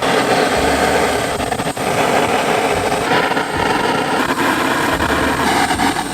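Portable butane gas torch hissing steadily as its flame is held against firewood that is slow to catch, with some low rumble at times.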